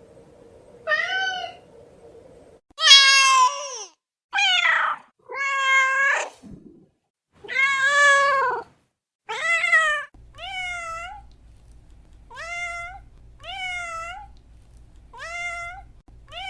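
Domestic cat meowing over and over, about ten separate meows. The longest and loudest come in the middle. From about two-thirds of the way in they turn shorter and quieter, each rising in pitch, at roughly one a second.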